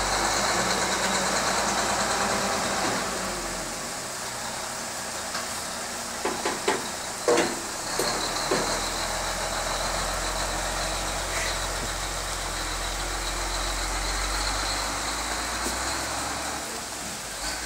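Log truck's engine running steadily, a little quieter after about three seconds, with a cluster of sharp knocks between about six and nine seconds in.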